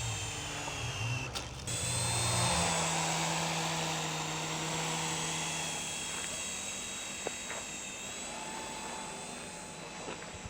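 Small electric motors of a Skytech M3 toy remote-control helicopter whining at a high pitch as its rotors spin. The whine is loudest a couple of seconds in and slowly fades toward the end, with a few faint clicks.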